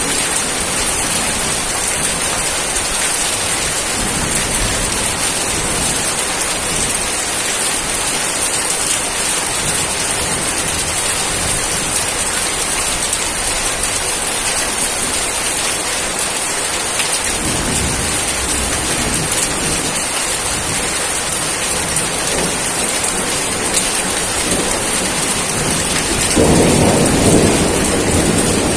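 Steady heavy rain falling, with low rumbles of thunder about seventeen seconds in and a louder rumble near the end.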